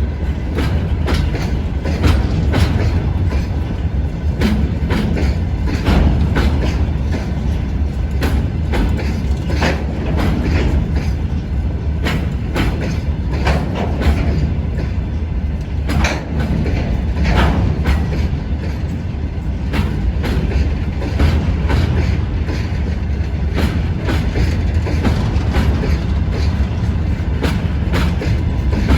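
Freight train rolling past with a steady low rumble, its wagon wheels clacking over rail joints again and again.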